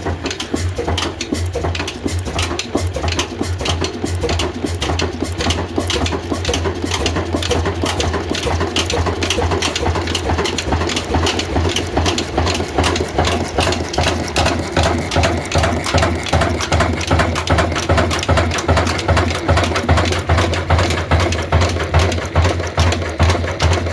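Old diesel engine running steadily with an even beat, about two strokes a second, clearest in the second half, over a constant low hum.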